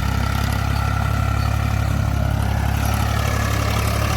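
Ford 3600 tractor engine running steadily, a low, even drone.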